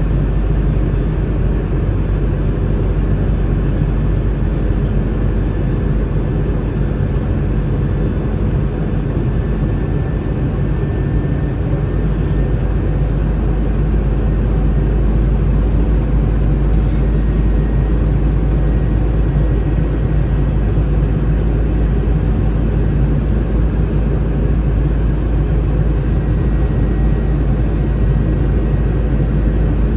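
Steady cabin roar inside an Airbus A319 in flight: its CFM56 jet engines and the airflow over the fuselage, a deep rumble with faint steady tones above it.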